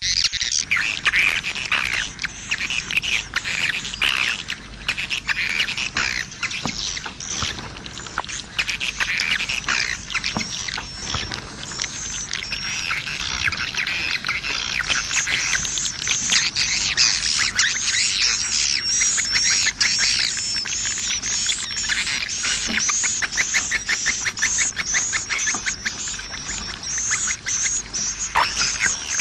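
Swiftlet lure call: dense, layered twittering and trilling of edible-nest swiftlets, made to draw swiftlets into a bird house. In the second half it settles into a regular run of short high chirps, about two a second.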